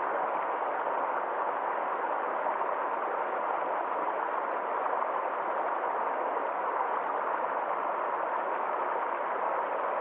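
Water of a small forest stream flowing steadily, an even rushing with no change in level.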